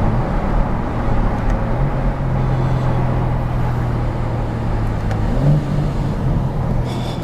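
BMW M4 Competition's S58 twin-turbo straight-six idling steadily while the car waits at a red light, with a low even hum that lifts slightly about two seconds in.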